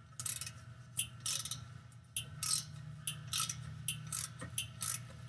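Socket ratchet clicking in short strokes, about two a second, as it works an exhaust manifold bolt loose, with a steady low hum underneath from about two seconds in.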